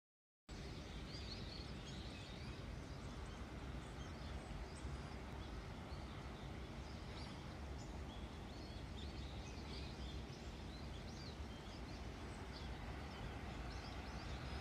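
Faint outdoor ambience: small birds chirping in short, scattered calls over a steady low rumble.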